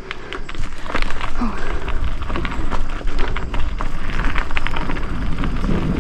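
Mountain bike rolling over a rough dirt trail: steady tyre and wind rumble with many quick rattles and clicks from the bike, getting louder about a second in.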